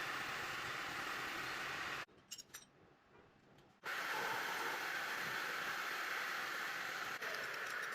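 A power tool running steadily, stopping about two seconds in with a few light clicks, then starting up again nearly two seconds later.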